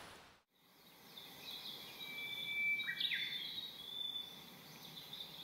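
Birdsong: thin, high whistled notes, some held steady and some sliding, starting about a second in.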